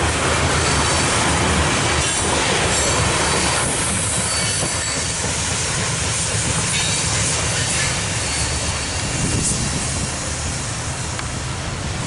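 Loaded coal hopper cars of a freight train rolling past on the rails: a steady rumble and clatter of steel wheels, with brief high wheel squeals now and then, easing slightly near the end.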